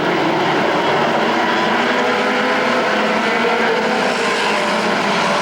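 A field of race trucks running around a short oval track, several engines sounding together as one dense, steady drone with many overlapping pitches.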